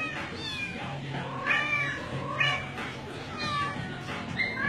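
Kitten mewing over and over, about five separate high mews, each rising and falling.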